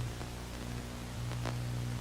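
Steady static hiss with a low electrical hum, the hum dropping out for about a second near the start; a faint tick about halfway through.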